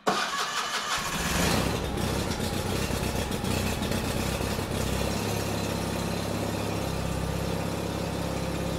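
A car engine starts, loudest for a moment about a second and a half in, then settles into a steady idle.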